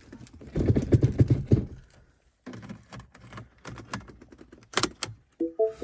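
Handling noises inside a car cabin: a burst of rattling, then a string of sharp clicks and knocks, with a few short electronic beeps starting near the end.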